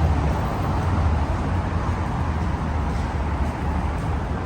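Steady city street noise: an even hiss over a constant low rumble.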